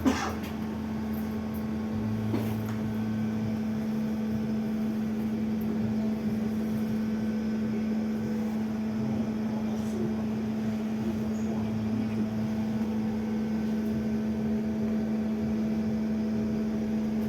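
Inside a BKM 32102 trolleybus under way: a steady electrical hum holding one constant tone, over the general running noise of the vehicle, with a couple of faint clicks.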